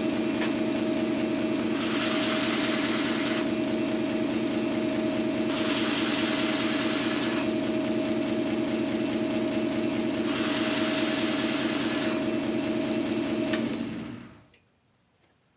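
Origin Blade Maker belt sander running with a new coarse belt, with a steady hum and a thin whine. A piece of brass is pressed to the belt three times, each a harsh grinding lasting about two seconds. The motor is switched off near the end and winds down.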